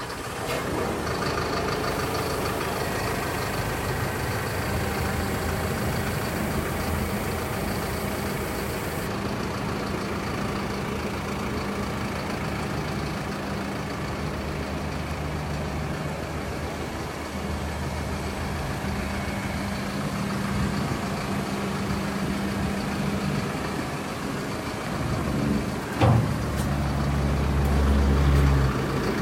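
Kubota M7-171 tractor's diesel engine running steadily. A sharp clunk comes about three-quarters of the way through, after which the engine sound grows louder and deeper for a few seconds.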